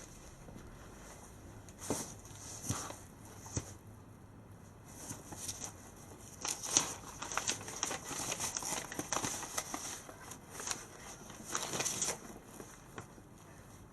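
Footsteps with rustling and scattered light knocks and scuffs, busiest in the middle of the stretch.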